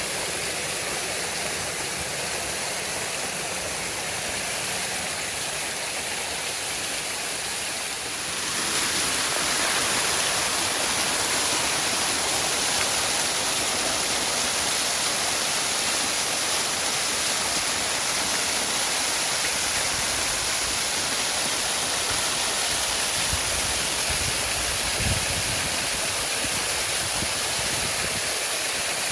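Waterfall rushing in a steady, dense hiss, which grows louder and brighter about eight seconds in. A brief low thump comes near the end.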